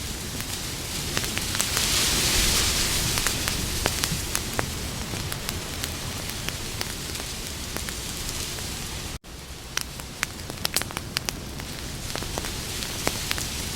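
Campfire burning: a steady hiss of flames with frequent sharp crackles and pops from the burning wood. About nine seconds in, the sound cuts out for an instant, and the crackling comes back thicker.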